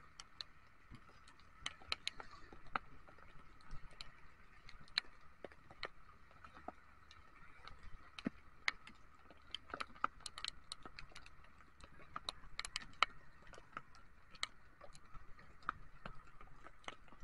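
Raindrops tapping irregularly on the mounted camera's housing, over the faint steady hum of a Honda ADV 150 scooter riding along in the rain.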